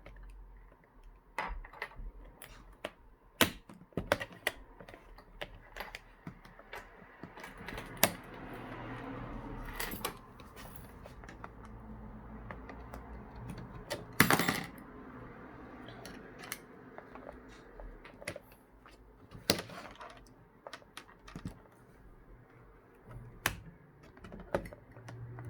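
Irregular sharp plastic clicks and taps from prying and working a laptop's screen bezel loose with hand tools, with a louder clatter about fourteen seconds in.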